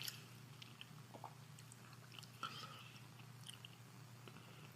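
Faint chewing close to the microphone: soft, wet mouth clicks and smacks scattered irregularly, over a low steady hum.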